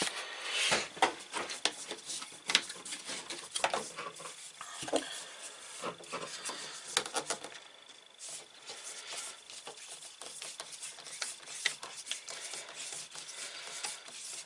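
Hands working on a drain hose connection: scattered clicks, knocks and rubbing as the fitting is undone.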